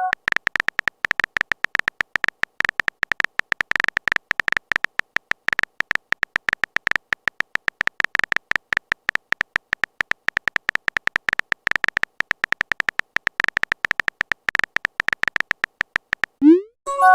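Rapid, irregular clicking of a phone-keyboard typing sound effect, many clicks a second, which stops about a second before the end. A short rising blip and a brief chime-like chord follow, a message notification sound.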